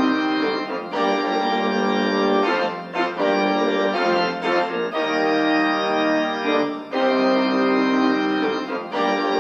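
Instrumental music: sustained keyboard chords, held and changed every second or two, with no vocals.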